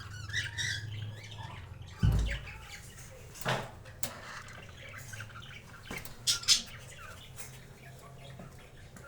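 Cockatiels giving short chirps and squawks on and off, with a loud low thump about two seconds in.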